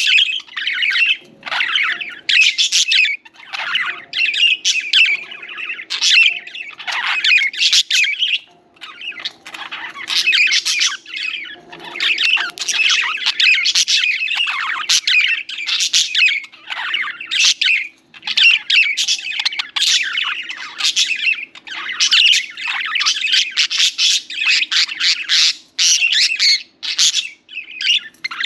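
Several budgerigars chirping and chattering almost without pause, in quick warbling and squawking calls.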